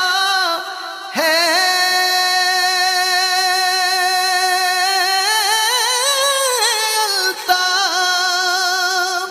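Devotional naat singing: one voice holding long, wavering sung notes.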